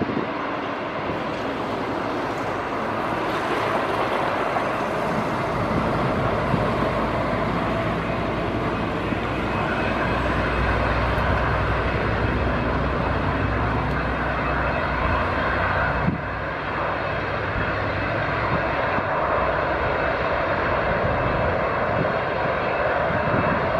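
Airbus A319 airliner's jet engines running steadily, a loud rumble with a whine of several steady tones over it.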